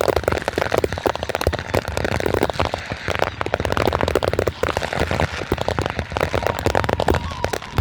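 Fireworks going off in a dense, continuous run of rapid cracks and bangs, many per second.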